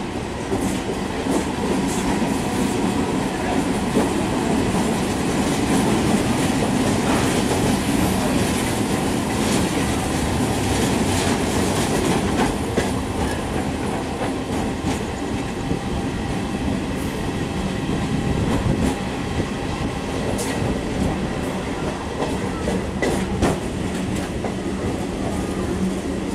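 Passenger train running at speed, heard from aboard a coach: a steady rumble of wheels on rails with wind, and scattered sharp clicks as the wheels pass over rail joints and points.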